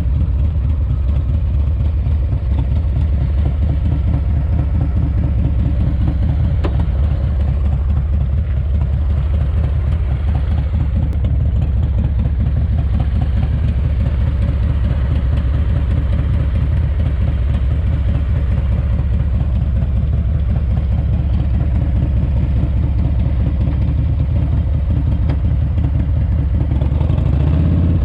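S&S 107ci V-twin in a Harley-Davidson FXRT running under way on its first break-in miles, a steady, loud low beat of firing pulses. It gets a little louder near the end.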